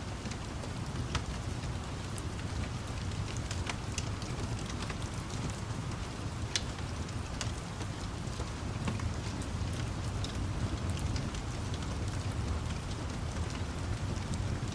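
Steady rain with a low rumble underneath, and scattered sharp crackles and pops of a burning wood fire, one louder pop near the middle.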